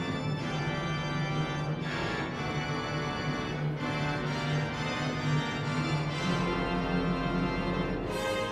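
Pipe organ playing loud, sustained full chords, with a held low bass note that changes about six seconds in.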